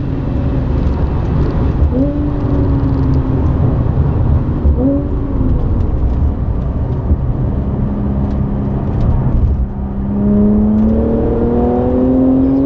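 Audi B8 S4's supercharged 3.0-litre V6 with a non-resonated Milltek exhaust, heard from inside the cabin on track over heavy road and tyre rumble. The engine note falls off, swells briefly twice, then from about ten seconds in climbs steadily as the car accelerates.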